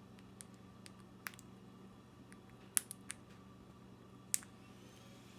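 Conure cracking millet seeds with its beak: scattered sharp clicks and crunches, the loudest a few near the middle and one about four seconds in.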